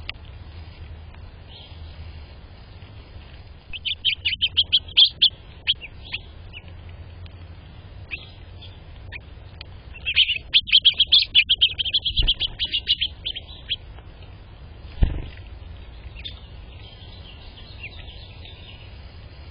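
Small songbirds chirping, with two bursts of rapid, twittering high notes, the second longer. A single dull thump comes about three-quarters of the way through.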